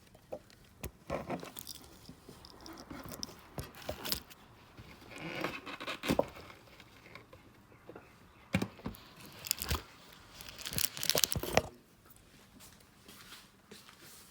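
Cleaning wipes being handled and pulled from their pack, with crinkling, tearing and scraping in irregular bursts and a few sharp clicks.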